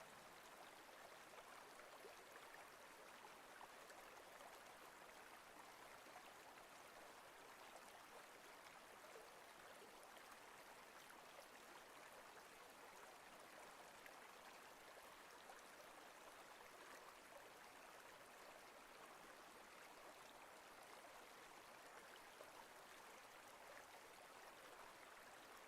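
Near silence with a faint, steady hiss.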